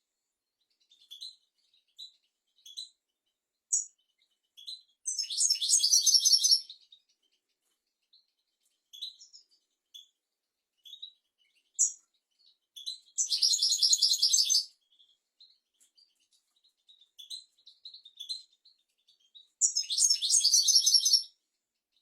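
European goldfinch singing: scattered short twittering notes, broken by three dense, rapid trilled phrases of about a second and a half each, several seconds apart.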